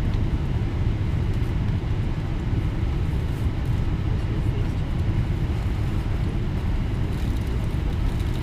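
Steady low rumble with a constant low hum from a Boeing 777-300ER airliner on the ground before takeoff, with no rise in pitch or other change.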